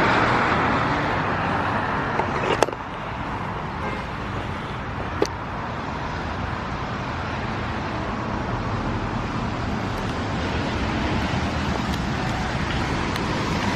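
Road traffic: a steady hiss of tyres and engines, louder at the start as a car goes by and then easing off, with two brief clicks a few seconds in.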